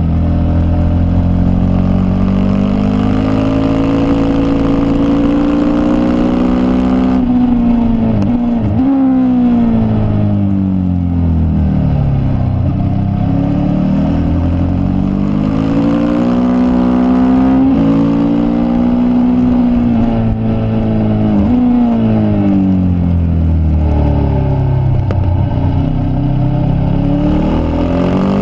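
Racing motorcycle engine at speed on track, its pitch repeatedly climbing under hard acceleration through the gears and falling as it downshifts into corners, with a flurry of quick downshifts about seven seconds in.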